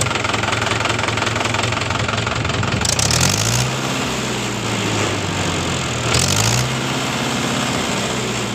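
Mahindra 575 DI tractor's four-cylinder diesel engine running steadily while pulling a cultivator through the soil in third gear low. Its note dips and climbs back twice, about three and six seconds in, each time with a short burst of hiss.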